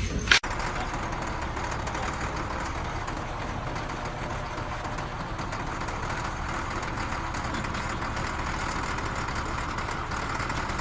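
Steady mechanical running noise, like an engine idling, starting after a brief cut about half a second in.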